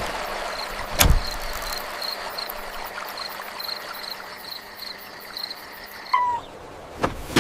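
Crickets chirping in evenly repeated short pulses over a steady outdoor night ambience, with a sharp knock about a second in and another near the end.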